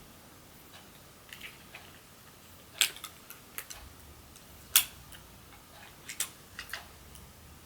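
Irregular small clicks and taps of tools and parts being handled on an iPhone 6s Plus during a screen replacement, with two louder clicks about three and five seconds in.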